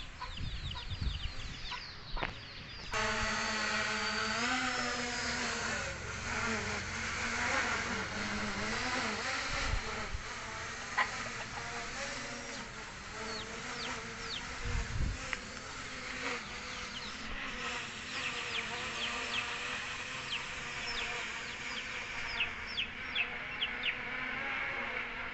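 MJX V6 quadcopter drone hovering, its propellers buzzing in a whine that starts suddenly about three seconds in and wavers up and down in pitch as the motors correct against strong wind. Wind rumbles on the microphone underneath.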